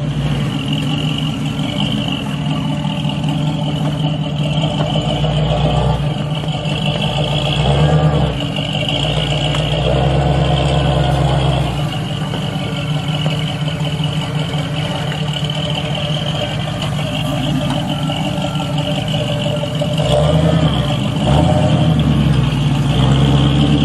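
Off-road 4x4's engine running at low revs while crawling over the trail, with several swells in throttle.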